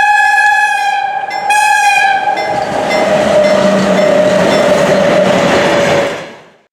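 Locomotive horn sounding, two long blasts with a short break between them. The second blast slides into a lower tone that falls slightly over the growing rush and rumble of a passing train, and the sound cuts off near the end.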